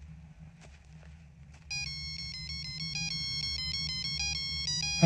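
A mobile phone ringtone starts suddenly about a second and a half in, playing an electronic melody of stepping beeps. Before it there are only a few faint taps, and a sharp thump comes right at the end.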